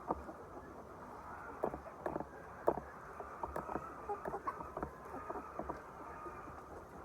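Poultry-shed background: a steady low hum under many scattered short clicks and chirps.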